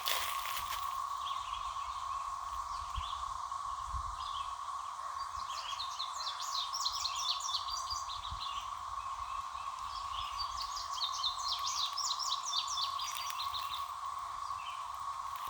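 Dense chorus of periodical cicadas, one steady, unbroken droning whine; the cicadas are described as deafening. Through the middle, runs of quick, high chirps sound over it.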